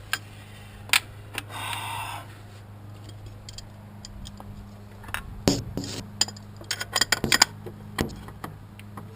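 Metal tools and engine parts clinking, tapping and scraping as they are handled, with a dense run of clicks about halfway through, over a steady low hum.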